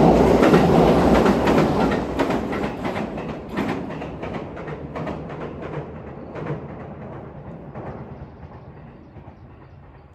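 Electric passenger train crossing a steel girder railway bridge overhead, its wheels clacking over the rail joints with a heavy rumble. Loudest at the start, then fading steadily as the train draws away.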